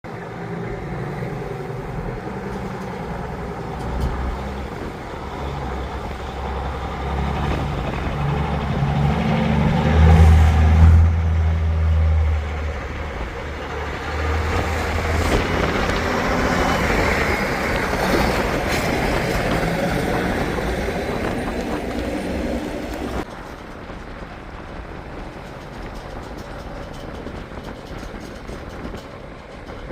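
A heavy truck's engine running, getting loudest about ten seconds in and then easing off. The sound drops abruptly to a quieter, steadier engine noise a little past twenty seconds.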